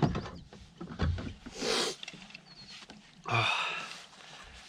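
A few light knocks from gear being handled in a kayak, then a man's loud, breathy exhale about a second and a half in, and a short 'oh' near the end, as he catches his breath after fighting a bass.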